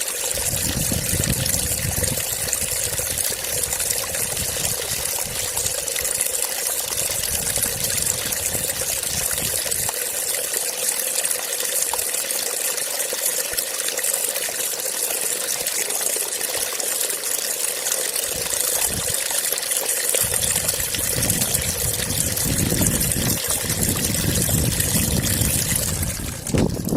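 Steady trickle of flowing water. A low rumble comes and goes near the start and again through the last several seconds.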